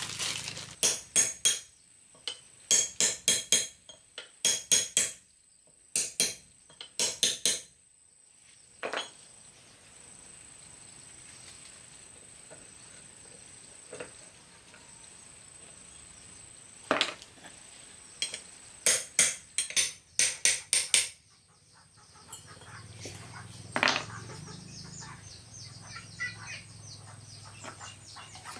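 Hammer blows on steel, in quick runs of two to four sharp ringing strikes with pauses between, then a few single strikes.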